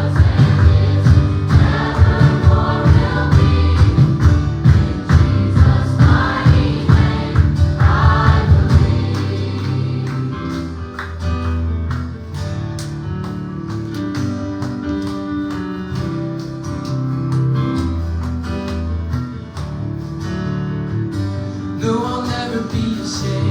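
Live gospel worship music: a band with drums and singers playing at full strength, then about nine seconds in the drums drop out to a softer, sustained instrumental passage, with voices coming back in near the end.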